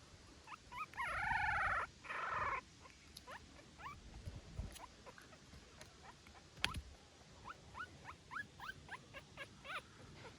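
Newborn puppy crying: two loud, drawn-out wails about a second in, then a run of short, high squeaks and whimpers.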